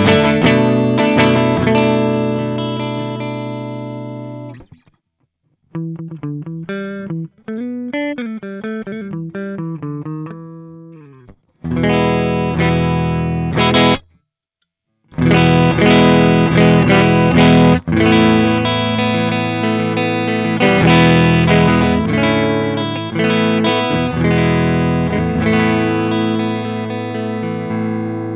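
Vantage 635V semi-hollow electric guitar being played: strummed chords that ring out and fade, a few seconds of quieter single picked notes, then more strummed chords. There are brief pauses where the sound stops.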